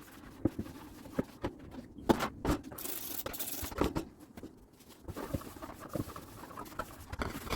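Handling noises: light knocks and clatters of small items being set down and moved, with a brief hissing rustle about three seconds in.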